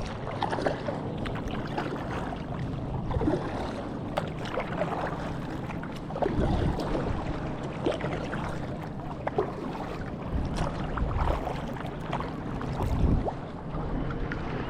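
Water splashing and lapping around a kayak as it is paddled, with irregular swells of splashing every second or two.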